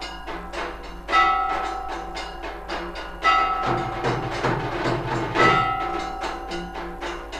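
Temple aarti percussion: a large bell struck three times, about two seconds apart, each strike ringing on, over a fast steady clatter of small bells and drums. A deeper, busier stretch of drumming comes in the middle.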